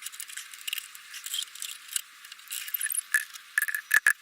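Light metallic clinks and rattles of a motorcycle exhaust header pipe and its flange nuts being handled and fitted, with a few sharper ringing clinks near the end.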